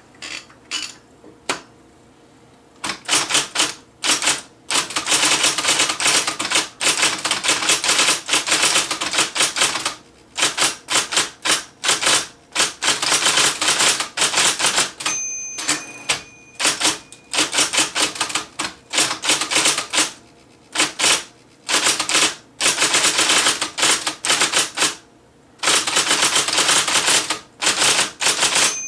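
IBM Selectric III electric typewriter being typed on: a few single keystrokes at first, then fast runs of typeball strikes in a rapid clatter, broken by short pauses.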